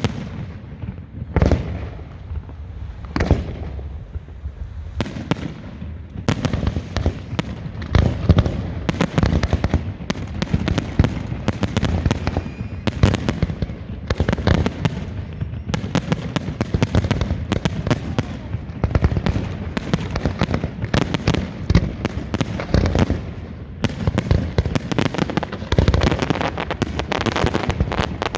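Aerial fireworks exploding close by: a few separate booms at first, then from about six seconds in a rapid, near-continuous barrage of bangs and crackle, as in a finale.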